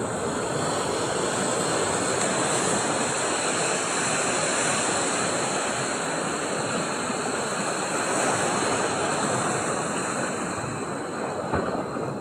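Sea surf washing and breaking in a steady rush of noise, with a brief knock near the end.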